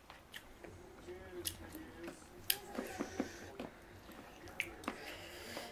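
Mouth sounds of eating: soft chewing and biting, with scattered sharp clicks of utensils and food.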